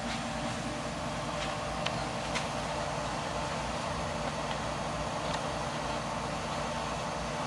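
Sikama Model 8x5 reflow furnace running at 200°C: a steady mechanical whir and hum, with a couple of faint clicks about two seconds in.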